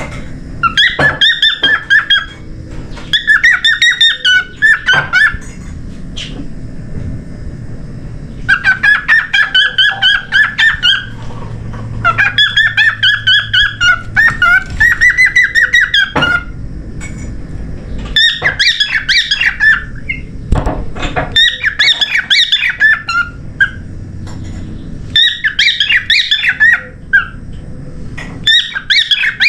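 Cockatiel singing in repeated phrases of rapid chattering chirps, about eight bursts separated by short pauses.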